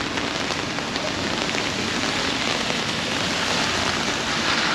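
Steady rain falling on wet pavement and street, a dense patter of drops, with a city bus drawing nearer over the wet road near the end.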